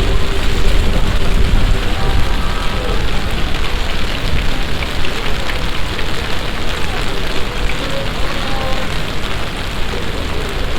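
Heavy summer shower rain pouring down steadily, a dense, even hiss of rain hitting the ground and surfaces.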